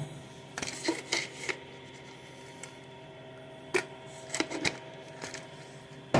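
Scattered light clicks and knocks of objects being handled while coffee is made: a quick cluster in the first second or so, then a few single taps further on.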